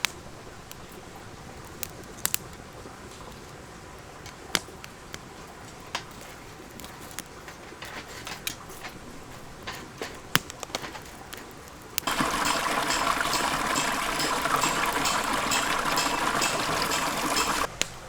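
Sparse sharp pops and crackles, typical of a burning wood fire. About twelve seconds in, a much louder dense hiss with a fine crackle starts suddenly, then cuts off just before the end.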